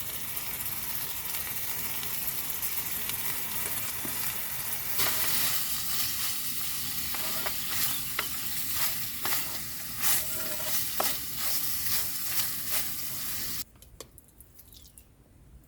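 Food frying in hot oil in a pan: a steady sizzle with crackles and spits, getting louder about five seconds in and cutting off abruptly near the end.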